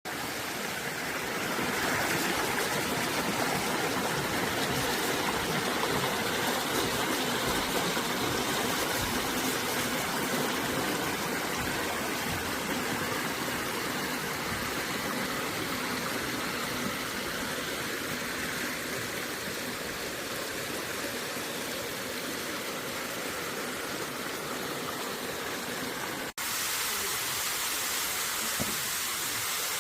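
Steady rushing of flowing water, as from a stream. About 26 seconds in it cuts off abruptly and gives way to a thinner, hissier rush.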